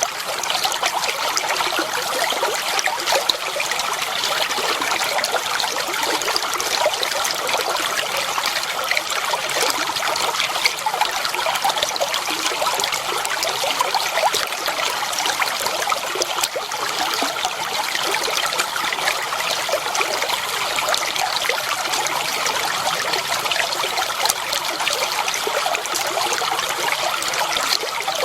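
Clear water flowing and trickling over stones in a shallow stream, a steady babbling splash with many small drips and gurgles.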